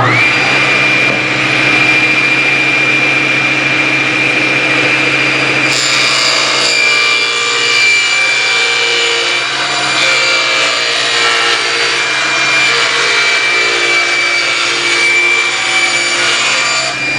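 Table saw switched on and coming up to speed with a steady whine. About six seconds in, the blade starts cutting through a plywood panel, trimming it to finished size.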